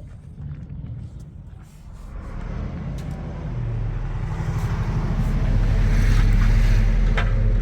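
A motor vehicle's engine running and growing steadily louder, as if approaching, with a deep low rumble. A brief sharp click near the end.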